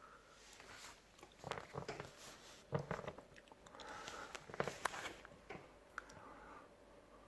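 Faint handling noises: scattered light clicks, taps and rustling from parts being handled, with a few sharper clicks near the middle.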